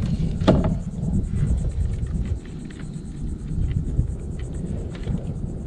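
Low, steady rumble of wind buffeting the microphone. One short knock comes about half a second in, followed by a few faint taps.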